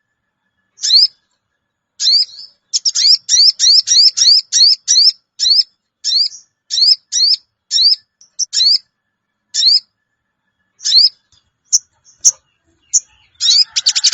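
Sogon bird calling, a repeated short rising 'cuwit' note, in quick runs of several a second with pauses between. Near the end it breaks into a rapid chattering series.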